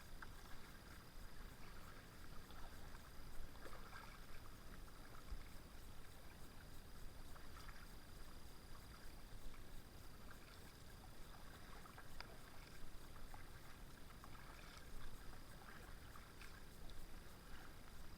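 Faint kayak paddling: soft irregular splashes and drips of the paddle blades in the water, with a thin steady high tone behind.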